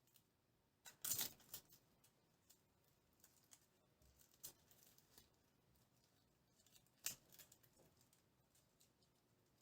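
Quiet handling noises: two short bursts of crisp rustling and clicking, about a second in and again about seven seconds in, with faint scattered clicks between.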